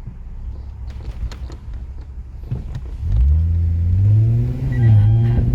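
Lexus IS250's V6 engine pulling away: low road rumble, then the engine note rises in pitch about three seconds in and levels off near the end.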